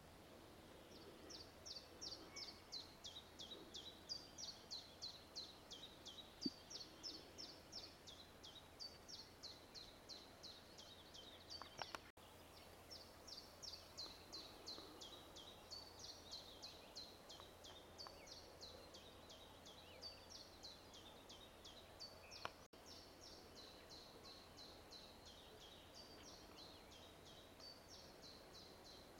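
Faint birdsong at dusk: a fast, almost unbroken run of high, down-slurred notes, about three a second, broken twice by short clicks.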